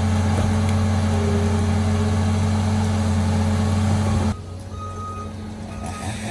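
Engine of an earth-moving machine running steadily while dirt is pushed for the track. About four seconds in it cuts off abruptly to a quieter engine sound, with a short high beep near the end.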